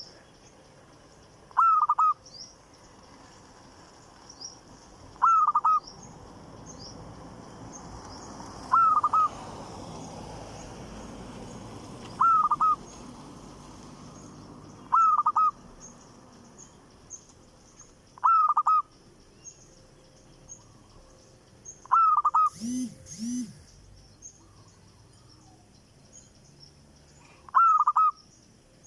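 A newly acquired caged bird calling over and over, one short call every three to four seconds, about nine times. Small birds chirp faintly in the background, and a lower double call from another bird comes once, about two thirds of the way through.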